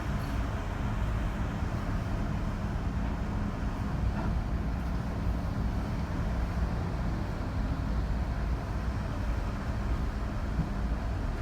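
Steady low engine rumble with a faint hum, unchanging throughout.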